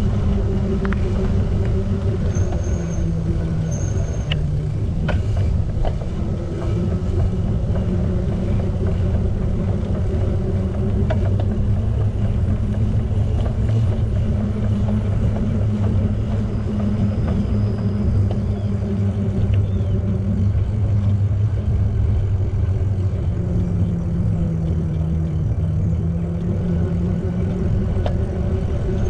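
Steady low rumble of riding a bicycle: tyres rolling over pavement, with wind and road noise on the camera microphone. Two brief high squeaks come about two and four seconds in.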